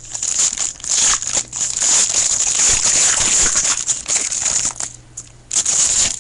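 A trading-card pack's wrapper crinkling as it is torn open and the cards pulled out, loud for most of the time with a short lull near the end before a last burst of crinkling.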